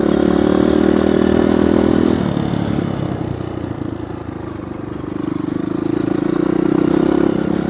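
Dirt bike engine running under throttle, easing off about two seconds in and picking up again from about five seconds.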